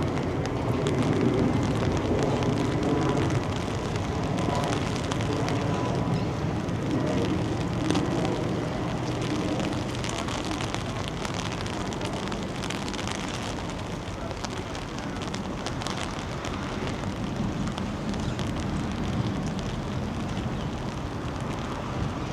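Rain falling steadily, with many small crackling ticks of drops hitting surfaces. A low rumble sits under it in the first few seconds and then eases.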